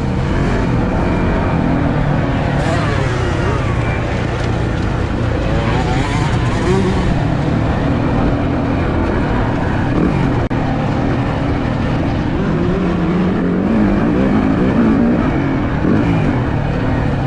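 Four-stroke motocross bike engine under riding load, its revs rising and falling over and over as the rider opens and closes the throttle and shifts through the gears.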